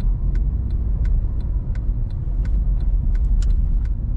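Road noise heard inside a moving car's cabin: a steady low rumble, with scattered light clicks and ticks.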